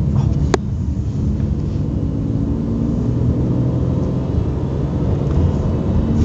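Steady low rumble of a car driving, engine and road noise heard from inside the cabin. A single sharp click about half a second in.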